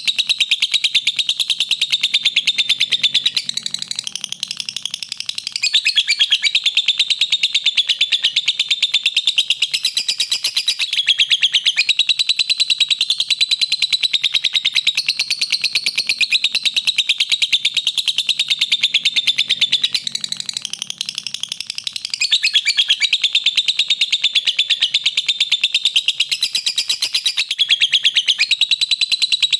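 Lovebird chattering in a rapid, unbroken trill of high chirps, dipping briefly softer twice, around four and twenty seconds in.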